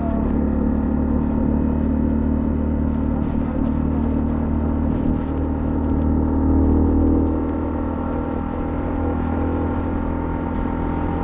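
Honda CL250's single-cylinder engine running steadily, swelling briefly about two-thirds of the way through.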